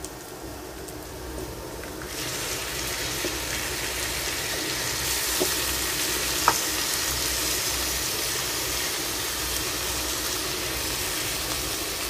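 Oil sizzling in a frying pan with onion, garlic and ginger. About two seconds in, the sizzle grows much louder as chopped tomatoes go into the hot oil, then holds steady. There is one sharp click a little past halfway.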